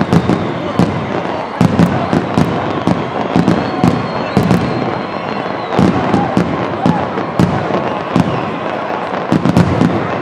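Fireworks going off in rapid, irregular succession, many sharp bangs and pops over a continuous wash of crowd noise.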